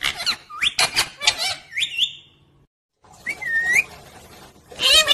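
Pet parrot calling: a quick run of short chirps and squawks ending in a rising whistle, then after a short gap a longer call that dips and rises, and another loud call near the end.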